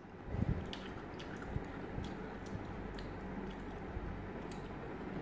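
Close mouth sounds of eating: chewing with scattered crisp crunches, from biting into a crunchy pickled gherkin.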